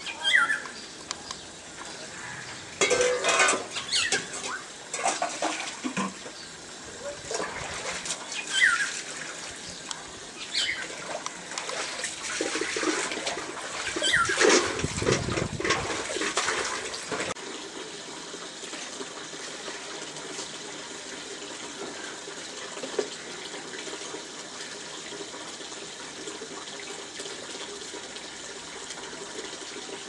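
Small songbirds calling: a handful of short, downward-sliding chirps scattered through the first half, over a steady rushing background noise that swells for a few seconds in the middle.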